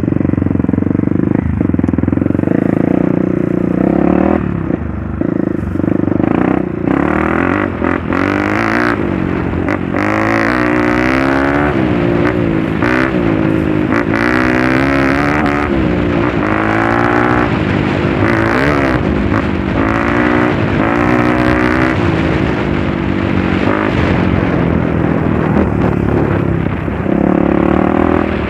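Trail motorcycle engine running under way, its pitch rising and falling again and again as the throttle is opened and closed, with frequent knocks and rattles.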